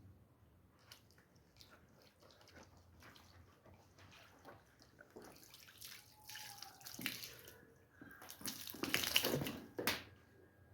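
Water running and splashing during hand-washing of a rug, with small scattered wet clicks and squelches. The water grows louder in the second half, loudest about nine seconds in.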